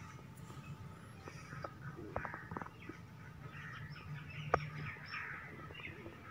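Birds chirping faintly in the background, with a few sharp clicks and a faint low hum underneath.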